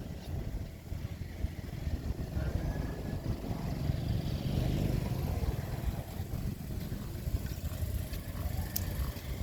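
Diesel engine of heavy earthmoving machinery running with a steady low rumble that grows louder for a couple of seconds around the middle. A single short sharp click comes near the end.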